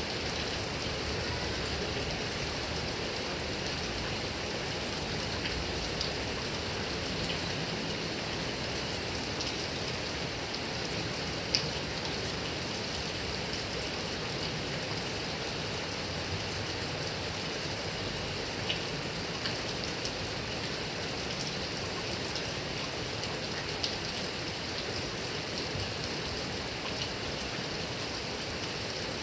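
Heavy rain falling steadily on grass and coconut palm trees, an even hiss with occasional sharp drops ticking, the loudest about eleven and a half seconds in.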